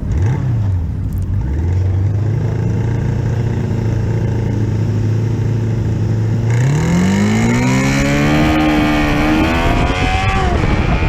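Drag-racing motorcycle engine idling at the start line with a couple of quick blips of the throttle, then launched at full throttle about two-thirds of the way in. The pitch climbs steadily, drops at an upshift near the end and climbs again, with wind noise rising once it gets moving.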